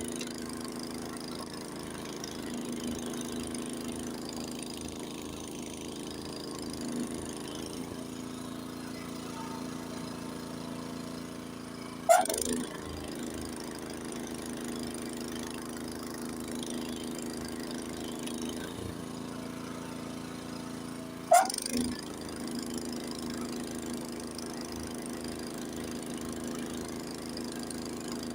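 Honda HS80 snowblower's single-cylinder engine running steadily as it blows snow, with two sharp knocks about nine seconds apart.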